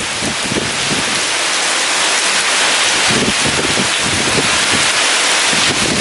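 Heavy rain falling in a dense, steady hiss, with strong wind gusting irregularly and buffeting the microphone.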